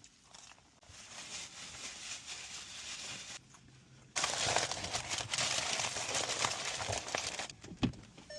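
Close eating sounds of crinkling and crackling, in two stretches with a short pause between.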